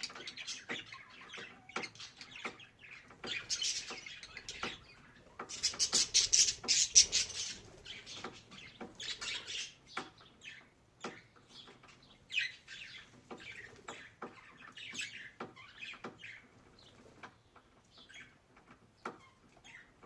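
Budgerigar chirping and warbling in bursts, loudest a few seconds in and sparser towards the end, with many short clicks and taps in between.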